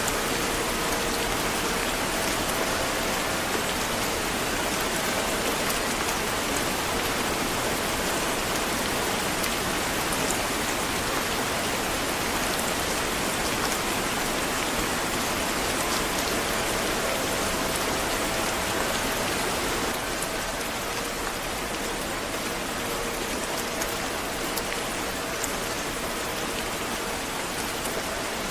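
Steady rain falling, an even hiss with scattered drop ticks. It drops a little in level about two-thirds of the way through.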